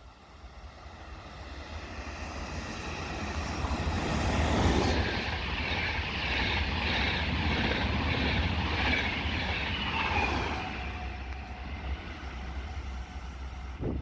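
A train passes along the track: the rumble and wheel noise swell over about four seconds, hold loud, and fade after about ten seconds.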